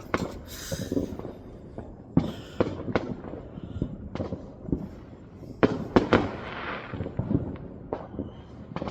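Fireworks going off: many sharp bangs at irregular intervals, loudest in a cluster of reports about six seconds in, followed by crackling.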